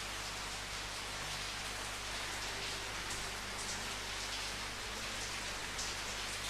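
Steady rain falling, a continuous even hiss with the patter of drops on a surface.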